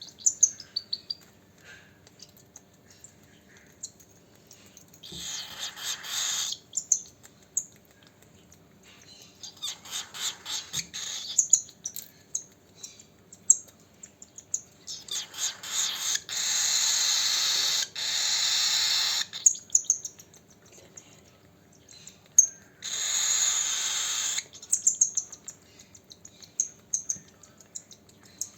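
Baby cockatiel begging to be fed: four harsh, hissing begging calls, the longest about four seconds, with short high chirps in between.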